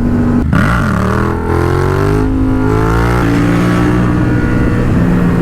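Motorcycle engine accelerating hard under the rider, its pitch climbing for a couple of seconds, then dropping at an upshift about three seconds in and pulling on.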